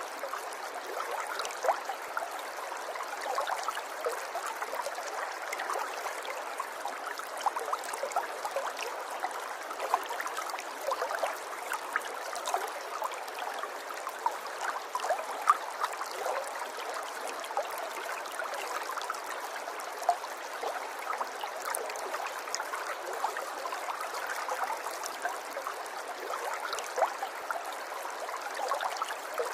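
River water flowing, a steady rush of water peppered with many small splashes and drips.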